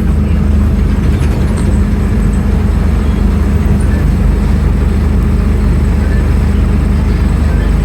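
Scania N310UA articulated city bus with ZF Ecomat 6HP automatic gearbox, its engine running steadily with a low, even drone.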